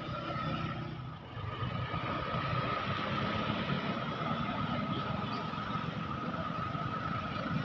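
Heavy truck engine running, with a steady high-pitched whine held throughout.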